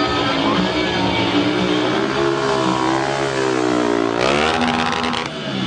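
Stunt motorcycle's engine running under throttle, its pitch sinking slowly and then climbing sharply again about four seconds in as it revs, with a burst of hiss as it does.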